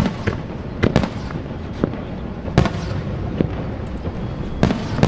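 Fireworks display: aerial shells bursting one after another as a string of sharp bangs, roughly one or two a second, over a continuous low rumble.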